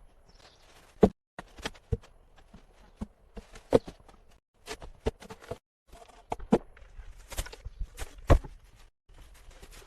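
Irregular knocks and thuds from hand building work, a few sharp loud strikes among many softer ones, with no steady rhythm.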